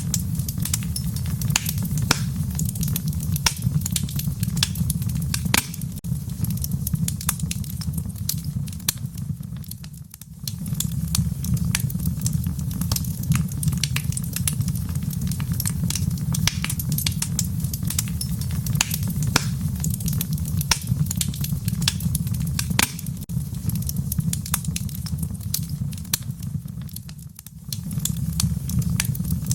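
Fire crackling in a fireplace: a steady low rumble of flames with frequent sharp pops and snaps. The rumble briefly drops away twice, about ten seconds in and near the end.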